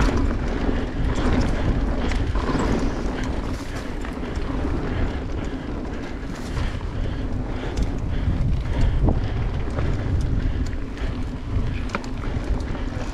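Mountain bike rolling along a dirt trail at speed: wind rumbling on the bike-mounted microphone over the tyre noise, with scattered clicks and rattles from the bike.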